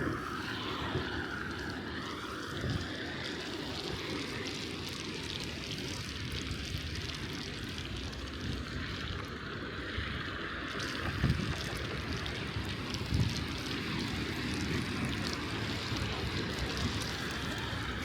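Steady wind and rolling noise from a bicycle ridden along a snowy street, with a low rumble and a few soft knocks from bumps about 3, 11 and 13 seconds in.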